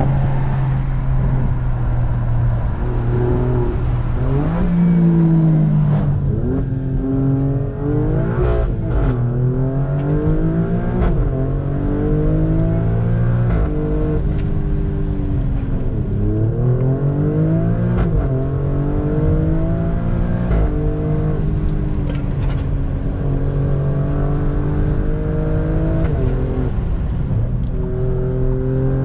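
Alfa Romeo Stelvio Quadrifoglio's twin-turbo V6 pulling hard through the gears, its pitch rising and then dropping at each gear change again and again. Short sharp cracks from the exhaust come here and there.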